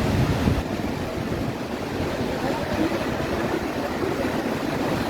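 Ocean surf washing on the beach, with wind buffeting the microphone; the low wind rumble eases about half a second in.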